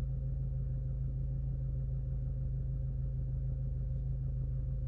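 Car engine idling steadily, heard from inside the cabin: an even low hum with a faint steady whine above it.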